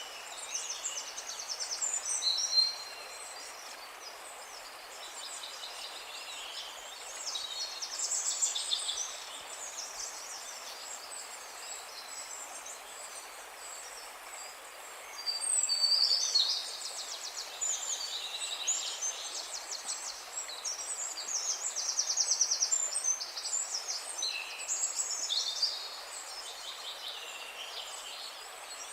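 Songbirds singing in short trilled phrases of one to three seconds, about six times, over a steady background hiss.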